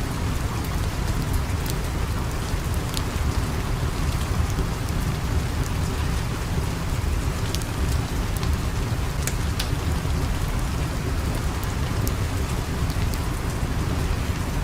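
Steady heavy rain with a deep low rumble, scattered with sharp ticks and crackles.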